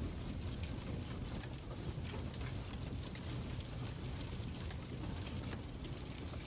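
Fireplace fire crackling: a steady low rumble with many small scattered pops and ticks.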